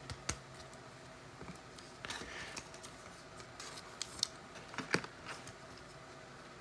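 Trading cards and pack wrapping being handled: scattered soft clicks and taps, a brief rustle about two seconds in, and a sharper click just before the five-second mark.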